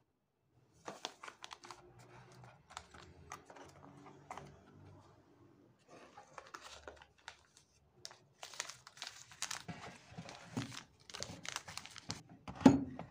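Pantry goods being handled: plastic packaging rustling and crinkling, with light clicks and taps of containers set down, busier in the second half and ending with one louder knock near the end.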